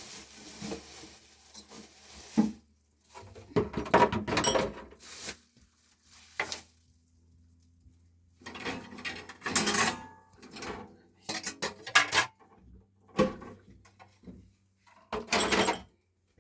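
Dishes and pots clattering as they are picked up and handled for washing, in several short bursts of knocks and scrapes with quiet gaps between.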